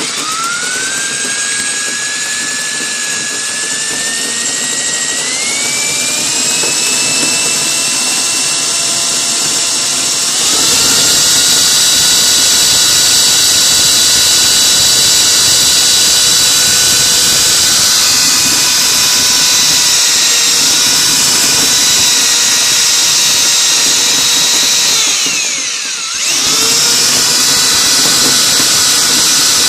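Power drill spinning a rotary dryer-vent brush on fiberglass rods inside the vent pipe. Its whine rises in pitch over the first several seconds and grows louder and harsher about a third of the way in. Near the end the motor briefly slows and speeds back up.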